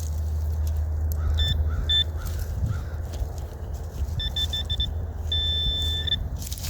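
Metal detector signal beeping as it closes on a buried target: two short high beeps, then a quick run of beeps, then one long steady tone near the end.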